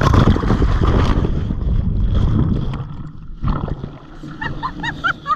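A breaking surf wave crashes over them, water rushing and churning loudly for about three seconds before it drains off, with a smaller surge about a second later. Near the end, a series of short, evenly spaced high chirps starts.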